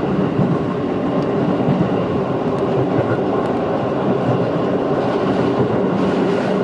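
JR 211-series electric train running along the line, heard from inside the passenger car: a steady rumble of wheels on rail with a few faint clicks.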